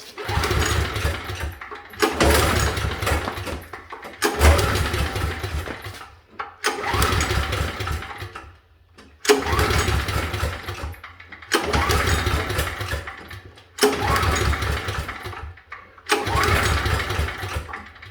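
Briggs & Stratton 5,550 watt gas generator's engine being cranked over again and again, about eight pulls roughly every two seconds, each turning over and dying away without catching: a hard-starting generator that won't fire up.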